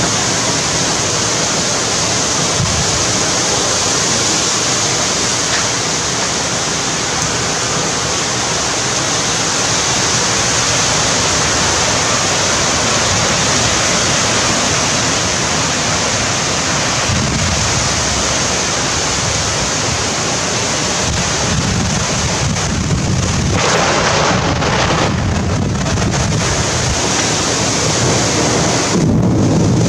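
Heavy rain pouring down in a steady hiss, with gusts of wind buffeting the microphone in swells during the second half.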